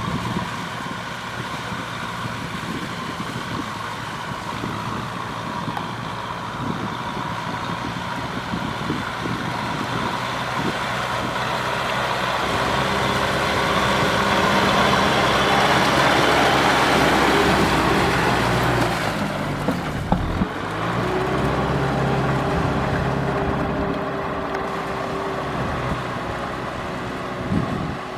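Kubota M6040SU tractor's diesel engine running under load, growing louder toward the middle, easing off sharply about two-thirds through, then running steadily again.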